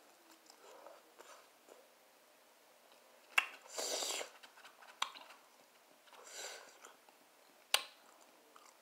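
Close-up chewing and mouth sounds of a person eating a fried, battered barbecue rib: soft wet smacks throughout, three sharp clicks spread through the second half, and two short hissy rushes of noise.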